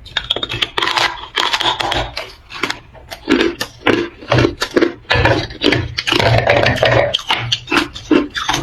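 Hard ice being crunched and chewed close to the microphone: quick, repeated crunches of dense crackling, each with a dull low thump underneath.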